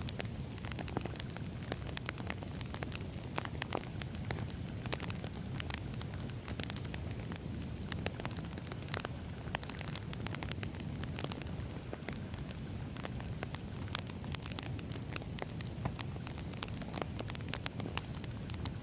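Wood fire burning with a steady low rumble and frequent sharp crackles and pops from the burning logs.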